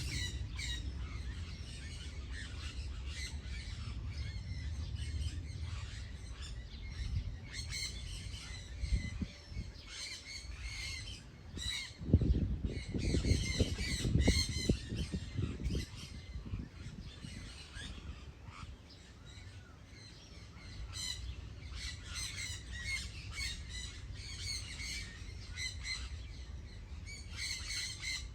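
Birds calling, a long run of short, rapidly repeated calls high in pitch. A low rumble rises under them about halfway through and fades a few seconds later.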